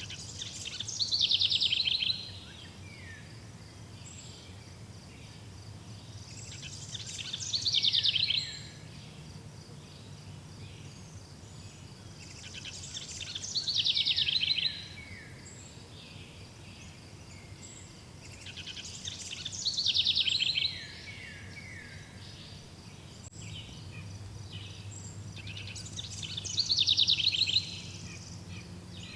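A songbird repeating the same song about every six seconds, five times: each a rapid run of high notes that swells and stops abruptly, then a few lower falling notes. A steady low hum and a faint high insect-like drone continue underneath.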